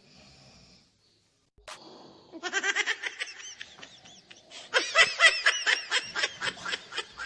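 High-pitched laughter in fast, repeated bursts. It starts about two seconds in and gets louder about halfway through.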